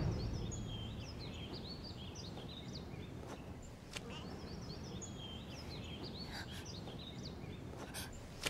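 Small birds chirping in quick, repeated twittering runs over a faint steady outdoor hiss, with a couple of soft ticks midway.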